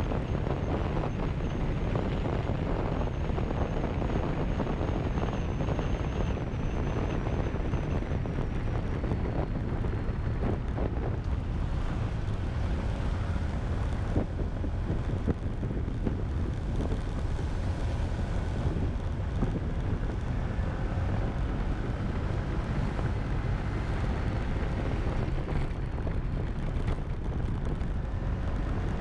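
A motorcycle on the move: wind rushing over the microphone, with the engine's faint drone underneath, most noticeable in the second half.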